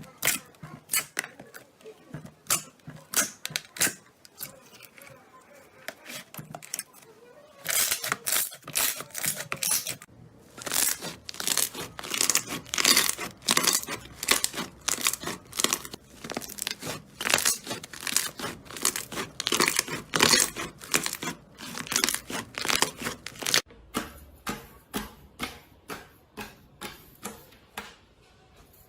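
Slime being squeezed and stretched by hand, giving quick runs of crackling, popping clicks with short pauses between them. The clicks grow sparser and quieter in the last few seconds.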